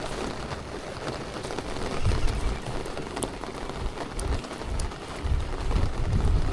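Steady rain falling on a small boat's roof and the water around it, with scattered small ticks of drops and uneven low rumbles about two seconds in and again near the end.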